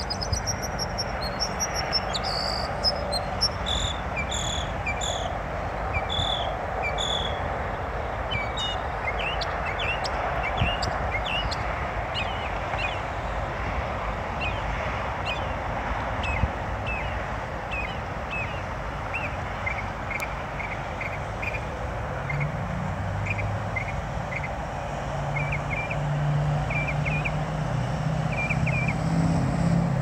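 A songbird singing a long series of short, high chirping notes, repeated in quick phrases, over a steady background hum of traffic. A motor vehicle's engine grows louder over the last several seconds.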